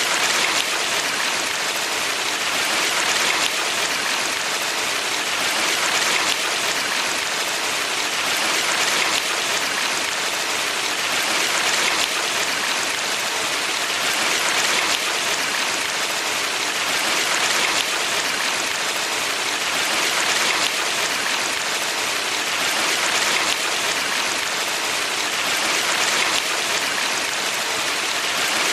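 Rushing water of a valley stream: a steady, even hiss that swells gently about every three seconds.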